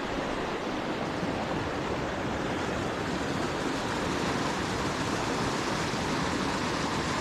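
Creek water rushing steadily, a constant noise with no break or change.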